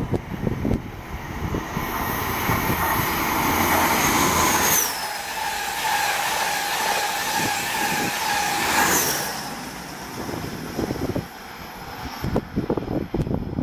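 East Midlands Trains express passing through a station at speed: a loud rush of wheel and air noise that builds, holds for several seconds and fades, with a high whine that drops sharply in pitch twice, about five and nine seconds in.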